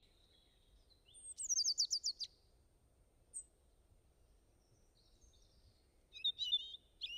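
Birds chirping: a quick trill of falling notes about a second in, a lone chirp, then a burst of several chirps near the end.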